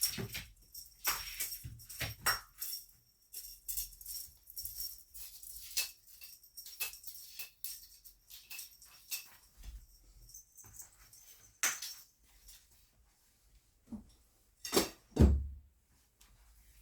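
Cat wand toy jingling and rattling in irregular bursts as it is flicked about during play. Two heavy thumps come close together near the end.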